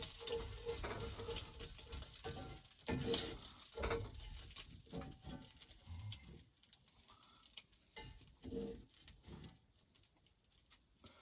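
Breakfast frying in a pan on a camp stove, with irregular knocks and scrapes of a utensil against the pan. The sizzle and clatter are stronger in the first half and thin out to scattered taps near the end.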